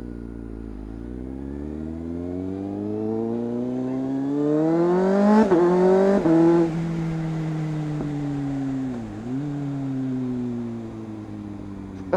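Motorcycle engine heard from inside the rider's helmet, pulling away with its pitch climbing steadily for about five seconds. Two quick gear changes follow, then it settles into a cruise with the pitch slowly falling.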